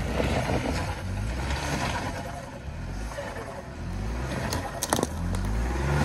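Ford Bronco Sport engine running under load as it crawls up a rocky trail, its pitch rising and falling with the throttle. There are a couple of sharp clicks from the rocks near the end.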